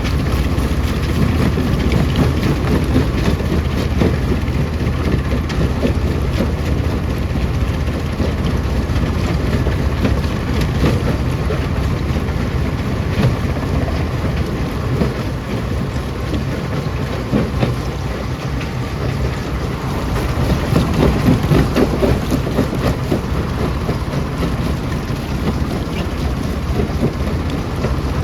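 Stone crusher running, with a steady low drone and constant rattling and knocking of rock being broken up. It grows a little louder about twenty seconds in.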